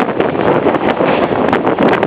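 Wind rushing over the microphone over the steady running noise of a moving passenger train on the Copper Canyon railway.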